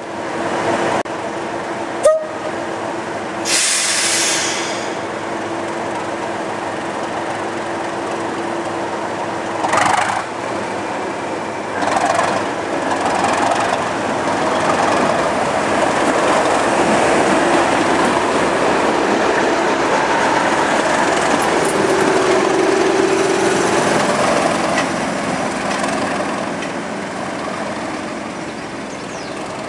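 A heritage railway train on the move: a steady engine note under the running noise, with a sharp click about two seconds in and a short hiss about a second later. The running sound grows louder through the middle and eases off near the end.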